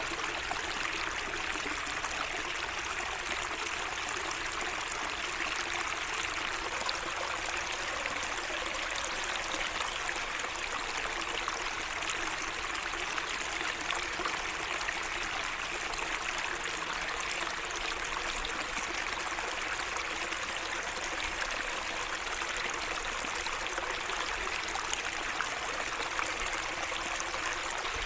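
Small garden waterway running with a steady trickling and rushing of water.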